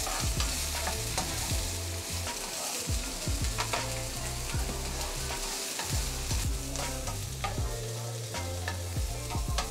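Chopped onions and bell peppers sizzling in oil in a hot frying pan, stirred with a spatula that scrapes and taps the pan again and again.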